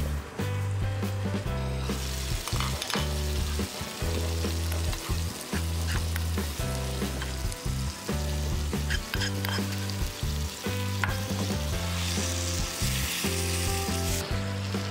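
Chicken curry sizzling in a nonstick kadai, with a wooden spoon stirring and scraping through it and a few short knocks against the pan.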